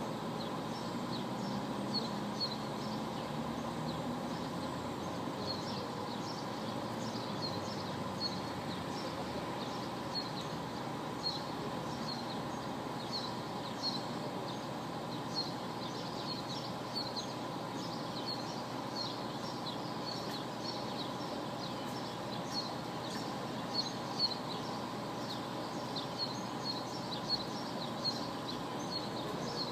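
Steady drone of idling diesel coach engines left running, with small birds chirping repeatedly over it.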